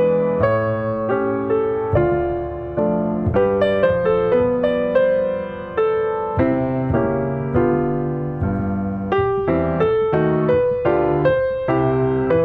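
Background piano music: a gentle melody of struck notes over a steady accompaniment.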